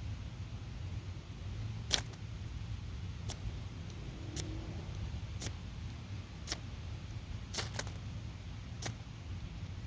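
Sharp clicks, about seven at uneven spacing, from repeated attempts to light a homemade wax-and-cotton fire starter that keeps failing to catch, over a steady low rumble.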